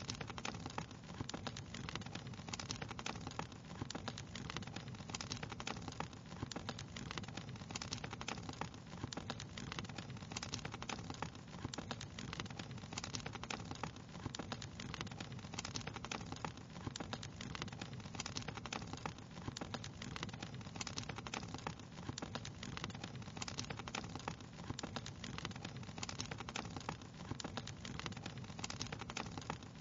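Wood fire crackling: dense, irregular small pops and snaps over a steady low noise of the burning flames.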